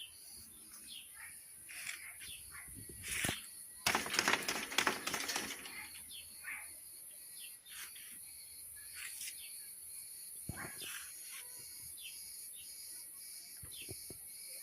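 Birds chirping in short, repeated calls over a steady high-pitched hiss, with a louder rustling stretch about four seconds in.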